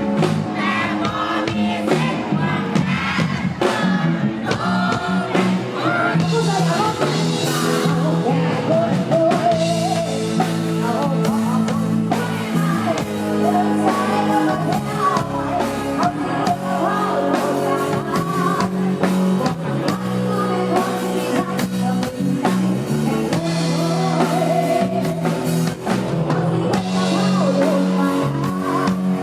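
Live Isan sound-truck band music with a singer's voice over steady bass and a regular drum beat.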